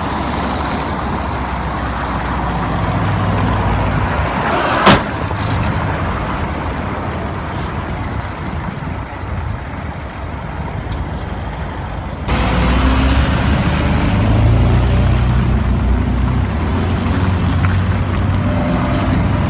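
Dash-cam recording of vehicle engine and road rumble, with one sharp bang about five seconds in. The road noise changes abruptly about twelve seconds in.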